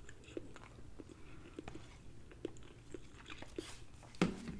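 Close-miked chewing, with soft wet mouth clicks about twice a second. A single louder knock comes about four seconds in.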